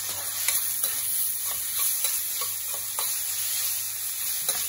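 Chopped onions and tomatoes sizzling in oil in an aluminium kadai while a steel spoon stirs them. The spoon scrapes and clicks against the pan about seven times.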